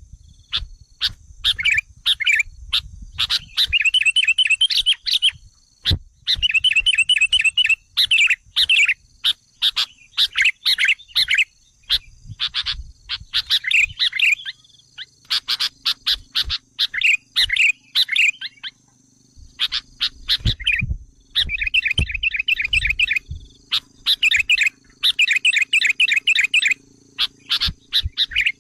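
Sooty-headed bulbul (kutilang) lure call: bursts of rapid, chattering notes, each lasting a second or two, repeated with short gaps. This is the agitated call used as a pikat to provoke wild bulbuls.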